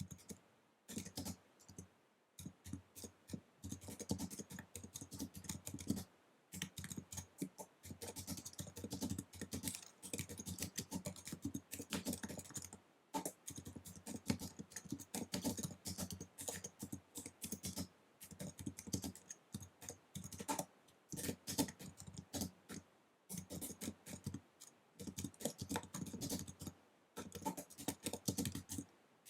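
Fast typing on an Apple wireless keyboard: rapid runs of light key clicks broken by short pauses every few seconds.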